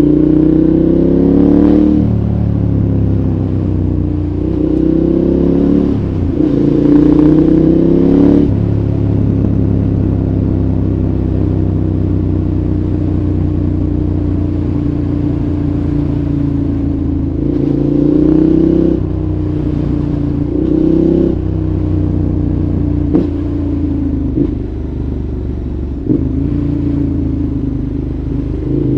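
2014 KTM 1190 Adventure's V-twin engine, breathing through a Giannelli exhaust, revving up in several short runs of acceleration with steadier, lower-pitched stretches between them. A few sharp clicks come near the end.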